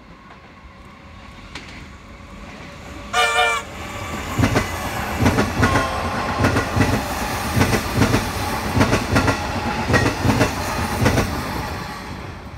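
Metro Trains Melbourne electric suburban train approaching, sounding one short horn blast about three seconds in, then passing close by with a rhythmic clatter of wheels over the rail joints that fades away near the end.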